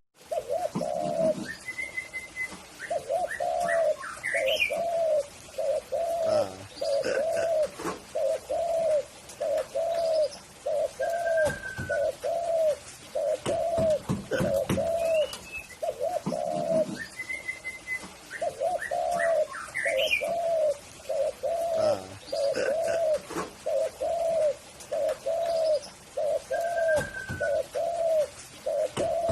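Spotted dove (tekukur) cooing: long runs of short, arched coos, about two a second, broken by a pause about halfway through. Other small birds chirp and whistle higher up now and then.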